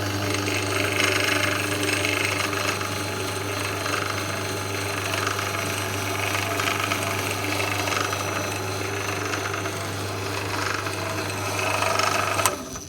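Einhell TE-BD 750 E drill press running with no load: a steady motor hum with mechanical rattle from the spindle and drive, cutting off sharply near the end.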